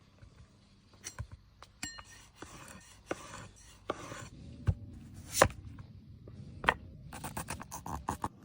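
Hand food-preparation sounds: scraping and rubbing with scattered knocks and clicks. The loudest knock falls about five and a half seconds in, and a quick run of clicks comes near the end.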